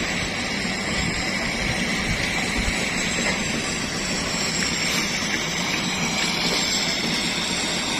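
Heavy diesel machinery engine running at a steady speed, a constant mechanical drone.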